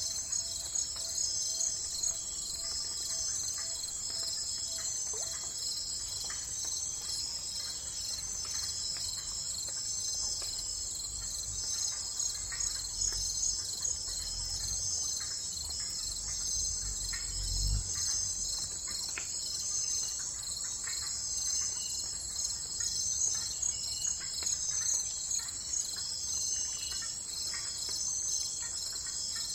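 Crickets chirping in a steady, dense chorus, with a brief low rumble a little past the middle.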